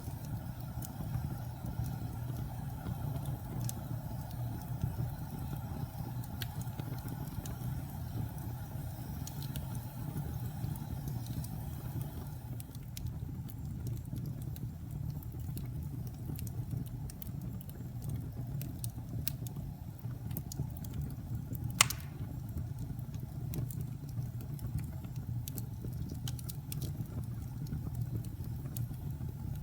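Fire crackling in a fireplace: a steady low rumble of flames with scattered small crackles and one loud pop a little past the middle.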